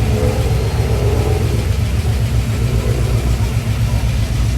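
A car engine running with a steady low rumble, with faint voices in the first few seconds.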